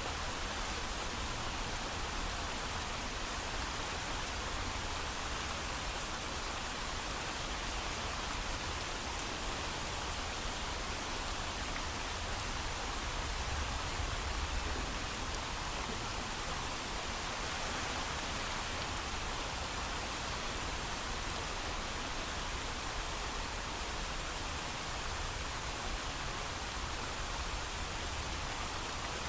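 Steady heavy rain, with no thunder: an even hiss with a low rumble underneath.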